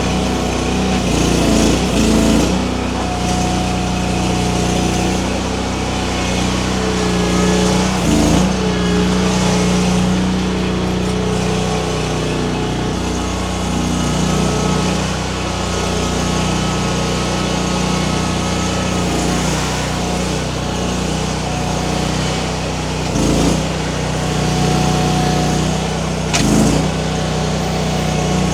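A Baumalight mini skid steer's engine running steadily under working load, its pitch shifting now and then, with a few clunks about two, eight, twenty-three and twenty-six seconds in.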